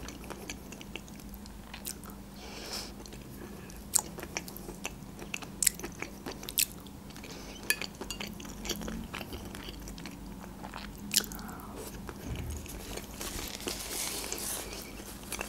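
Close-miked chewing of soft food, with sharp wet mouth clicks and smacks scattered irregularly throughout.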